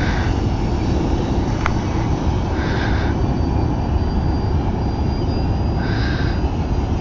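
Electric motor and propeller of a Precision Aerobatics Addiction RC aerobatic plane, a thin steady whine, over a heavy rumble of wind on the microphone.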